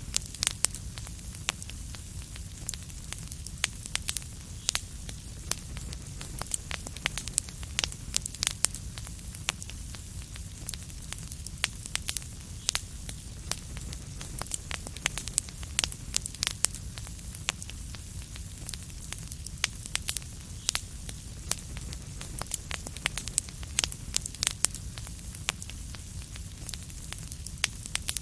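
Fireplace fire crackling: frequent sharp pops and snaps over a low steady rumble of the flames.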